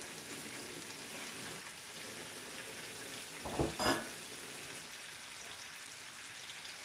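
Saltfish and vegetables sizzling steadily as they fry in a pan, with a brief pair of knocks a little past halfway.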